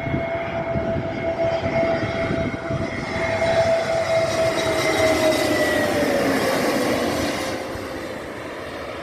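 Airbus A320neo jet engines on landing approach flying past, a steady whine over a broad rushing noise. The tone drops in pitch about two-thirds of the way through as the aircraft passes, and the sound fades toward the end.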